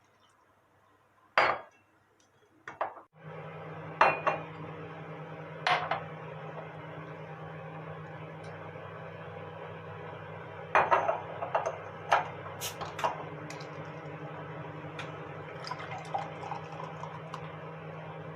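Dishes and utensils clinking and knocking in a kitchen. A steady appliance hum starts a few seconds in and carries on under the clinks.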